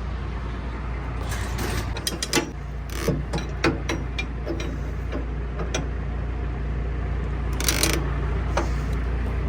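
Ratchet tie-down straps being worked to secure a car's wheels on a tow truck: irregular ratchet clicks and metal rattles, with a longer scrape near the end, over a steady low hum.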